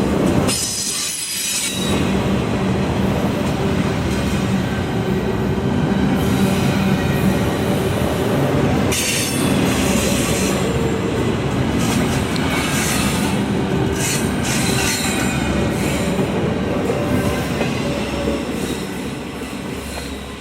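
A train rolling past, with wheels on the rails and high-pitched wheel squeal coming and going. It fades a little near the end.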